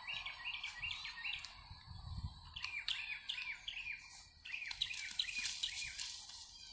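A bird chirping in a quick series of short, repeated notes that slide downward. Late on, a soft fizzing hiss of a Coca-Cola bottle spraying a Mentos-triggered foam fountain.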